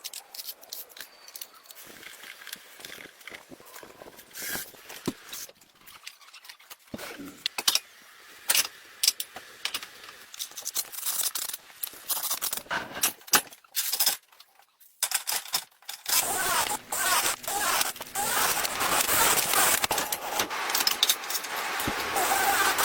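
Scattered clicks, clinks and scrapes of hand work on metal car parts. About 16 seconds in, a denser, steadier scraping noise takes over.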